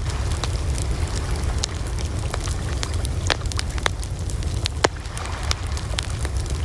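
Bonfire burning: wood crackling with scattered sharp pops and snaps over a steady low rumble. The loudest snap comes near the end.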